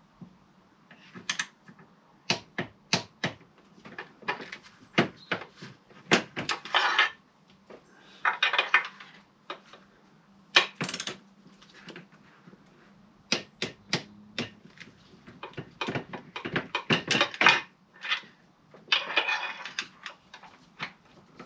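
Hand tools working on a car engine: a ratchet's rapid clicking in short runs among sharp metal clicks and knocks, over a faint steady hum.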